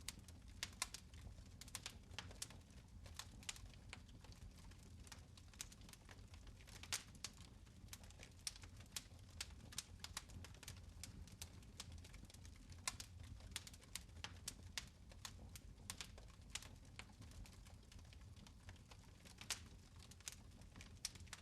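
Faint fire crackling in a fireplace: irregular sharp pops and snaps, several a second, over a low steady rumble.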